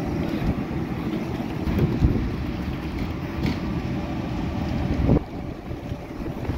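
Wind buffeting the microphone: a low rumble with stronger gusts about two seconds and about five seconds in.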